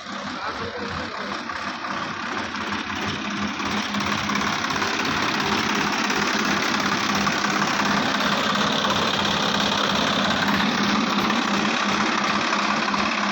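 Mahindra 605DI tractor's diesel engine running with a clattering sound; it gets louder about four seconds in, then runs steadily.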